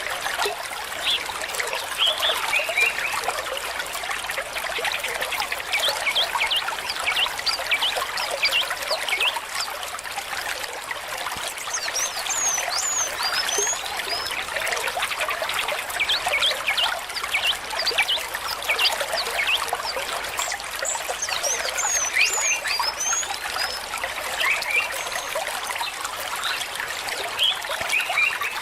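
A stream trickling and gurgling, a steady rush of water dotted with many quick bubbling plinks.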